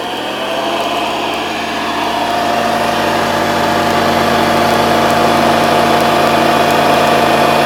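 1974 Hoover Custom Convertible Model 4007 upright vacuum cleaner's motor just switched on, winding up with a rising whine over the first second or two, then running at a steady hum.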